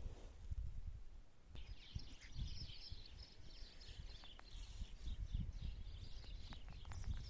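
Small birds twittering continuously from about a second and a half in, over an irregular low rumble.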